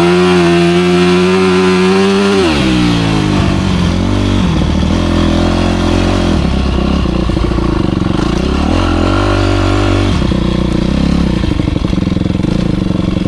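Motocross bike engine at high revs under throttle for the first couple of seconds, then dropping sharply as the throttle is shut, and running on at lower revs that rise and fall with the throttle.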